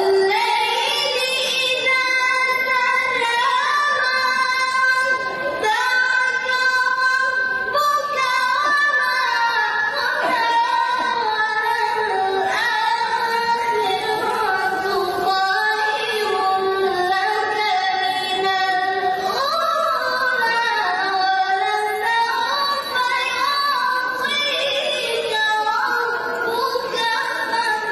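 A single high, clear voice chanting melodically in long phrases of held, ornamented notes that glide up and down, with short pauses for breath between phrases.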